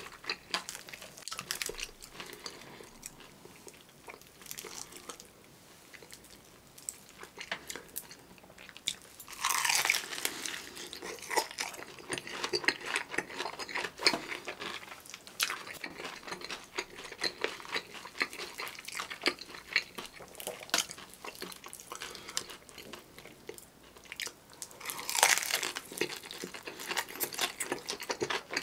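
Close-miked eating of a crispy seasoned fried chicken drumstick: crackling crunches and wet chewing throughout, with two loud crunchy bites, one about ten seconds in and one near the end.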